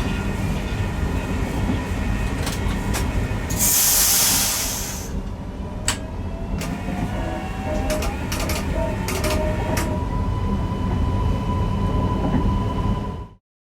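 Newag Impuls EN63 electric multiple unit running on the line, heard from the driver's cab: a steady rumble with scattered clicks from the wheels on the rails, a burst of hiss about four seconds in, and an electric whine that rises in pitch from about six seconds in and then holds.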